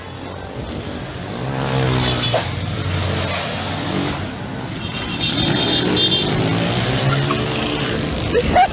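Vehicle engines revving hard during a high-speed chase, the pitch climbing and falling twice, with a high tyre squeal about five seconds in as a car corners hard.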